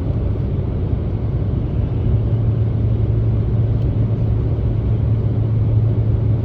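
Steady cabin rumble of a JAL Airbus A350 airliner, its Rolls-Royce Trent XWB engines and airflow heard from inside the passenger cabin, with a constant low hum under the noise.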